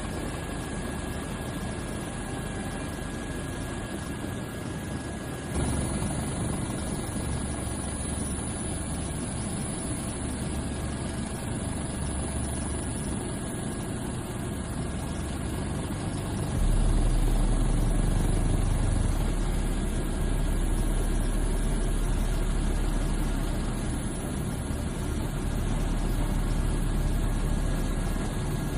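Aircraft in flight: a steady, loud engine and airframe drone with a deep rumble, stepping up in level suddenly about five and a half seconds in and again around seventeen seconds in.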